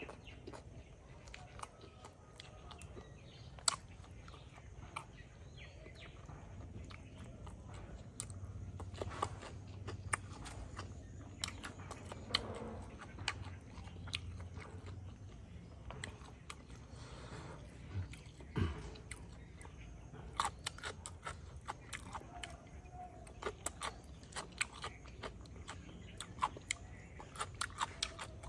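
Close-miked chewing and crunching of food eaten by hand, with many short sharp mouth clicks scattered throughout.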